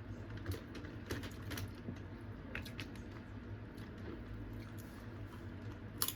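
Irregular small clicks and cracks of boiled crab shells being pulled apart and picked at, with some eating sounds, over a steady low hum. A louder cluster of clicks comes near the end.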